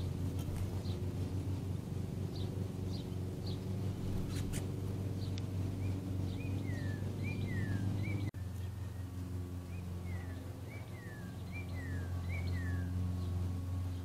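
Small songbirds calling: a few short high chirps in the first seconds, then a run of downslurred whistled notes, repeated roughly once or twice a second from about five seconds in, over a steady low hum. The sound cuts out for an instant about eight seconds in.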